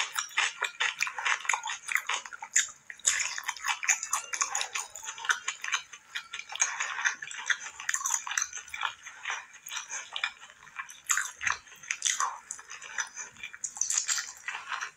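Chewing and wet mouth sounds of a person eating rice and mutton curry: a dense run of small smacks and clicks.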